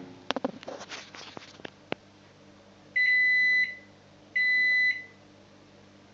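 A microwave oven being set: a quick run of clicks and taps, then two long electronic beeps about a second and a half apart.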